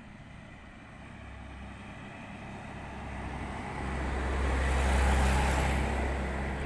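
A road vehicle passing by: its engine rumble and tyre noise build up over several seconds, are loudest about five seconds in, then fade away.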